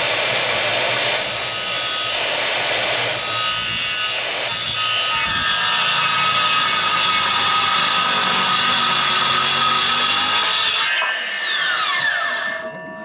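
Power tool cutting wood with a loud, steady whine and rasp. About eleven seconds in it is switched off and winds down, its pitch falling.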